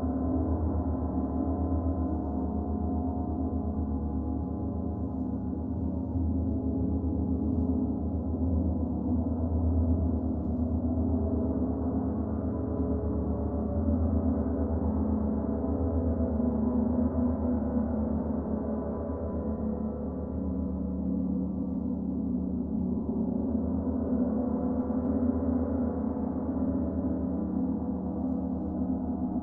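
A gong, played softly and continuously, producing a sustained dense wash of deep humming tones with gentle swells in loudness and no distinct strikes.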